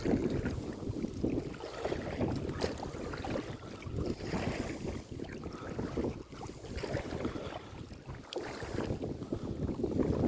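Wind buffeting the microphone on a kayak on open water, an uneven low rumble that swells and eases in gusts, with water sounds around the boat and a few light clicks.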